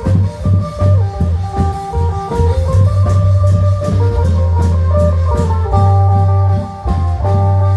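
Isan klong yao (long drum) band playing live: drum strokes over the first few seconds, then an amplified phin (Isan lute) picking a melody over a steady low bass note.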